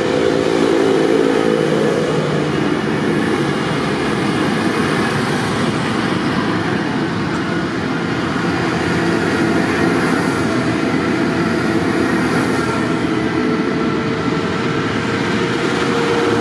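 Tractor engine running steadily, a continuous mechanical drone with no break.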